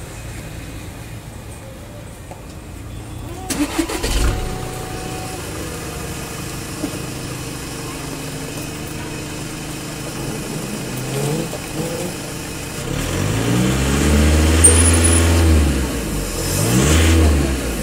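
Volkswagen Golf 1.6 TDI four-cylinder diesel engine cranking and starting about four seconds in, then idling and revved up and back down, with the two biggest revs near the end.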